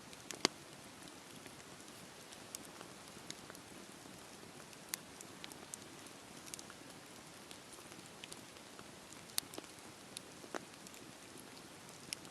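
Campfire burning: a steady soft hiss of flames with irregular sharp crackles and pops from the burning wood, the loudest about half a second in.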